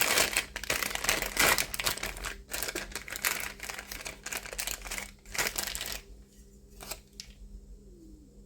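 Plastic packaging crinkling and rustling as small model parts are handled and unwrapped, with many sharp crackles; it stops about six seconds in, leaving a few faint clicks.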